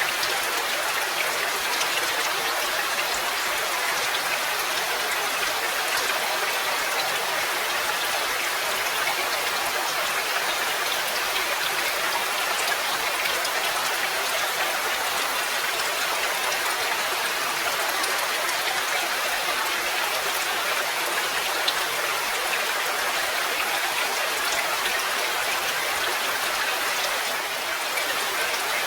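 Steady, even rainfall, with the patter of many individual drops heard close up. It eases slightly for a moment near the end.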